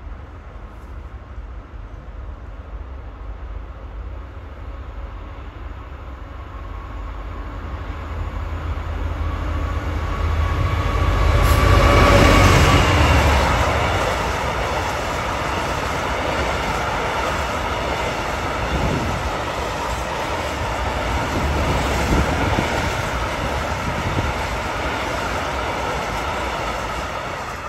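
Diesel-hauled freight train of china clay hopper wagons passing close by. The locomotive's engine builds to its loudest about twelve seconds in, dropping in pitch as it goes past, then the wagons' wheels keep rumbling steadily by.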